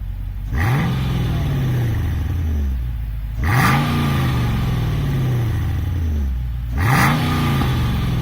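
Mercedes CLK 55 AMG's 5.4-litre V8 through its exhaust, idling and blipped three times, each rev rising quickly and then falling back to idle.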